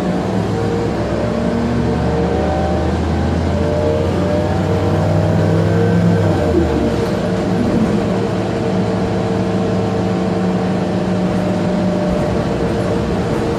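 Inside an Orion VII CNG transit bus underway: the natural-gas engine and drivetrain run with steady tones over the hum of the HVAC. About six and a half seconds in, the engine note changes and its low tones drop away.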